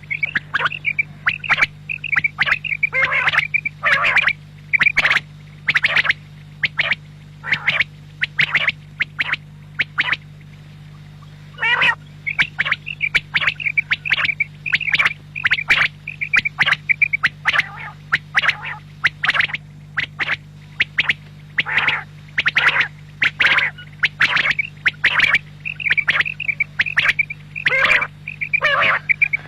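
Quail (batair) calling over and over in quick, sharp notes, with a short pause about ten seconds in. A steady low hum runs underneath.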